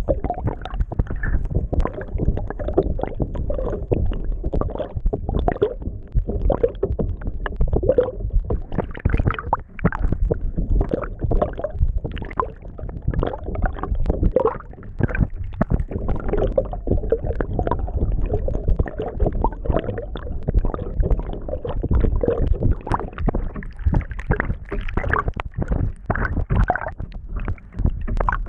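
Water rushing and gurgling, heard underwater while sailing, with a constant low rumble and dense irregular sloshing and crackling.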